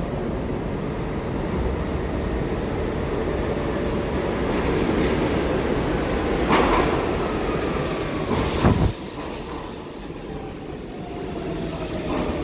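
New York City subway train running with a dense, steady rumble and two sharp clanks, the second at about eight and a half seconds. After it the noise drops suddenly, and a whine falls steadily in pitch.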